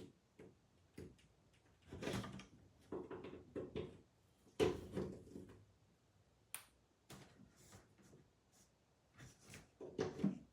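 A run of irregular knocks and clunks, the loudest about two and four and a half seconds in and another cluster near the end.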